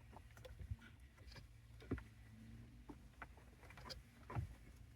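Faint, scattered clicks and knocks of plastic dashboard trim and its connectors being handled, the two most distinct about 2 seconds in and near the end.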